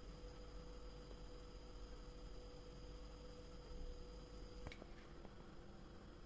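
Quiet room tone with a steady faint hum, and two light clicks near the end.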